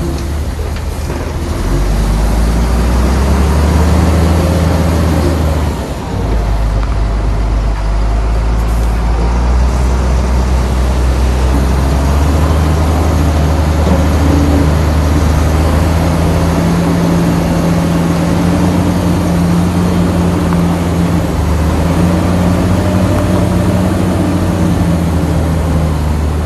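Shantui bulldozer's diesel engine running steadily under working load, its pitch shifting as the load changes, with a brief drop about six seconds in.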